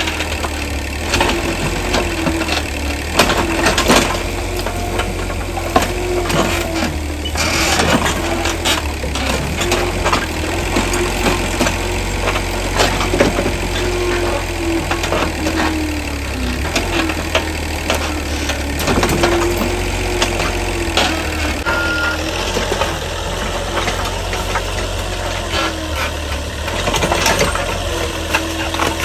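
A motor running steadily with a low hum, a wavering mid-pitched tone and many irregular clicks and knocks.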